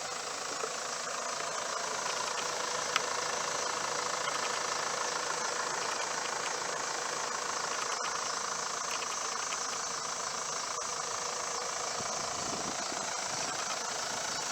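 Mitsubishi Fuso FE145's 4.9-litre turbo diesel idling steadily, with a single sharp click about three seconds in.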